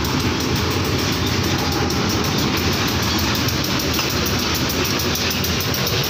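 A freight train of Pertamina fuel tank wagons rolling past close by: a loud, steady noise of steel wheels running on the rails, with some clatter.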